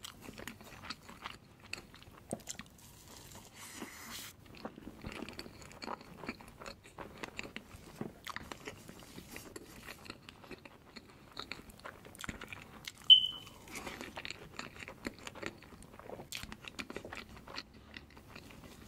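Close-miked eating sounds: a man chewing and swallowing soft layered crepe cake, with many small mouth clicks. A brief, sharp high squeak stands out about two-thirds of the way in.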